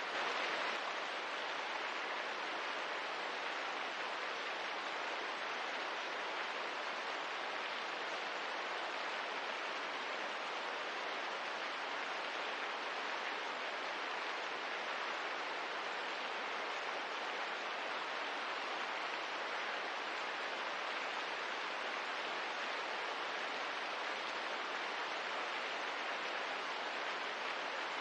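Rain ambience: a steady, even hiss of falling rain with no distinct drops or crackles standing out.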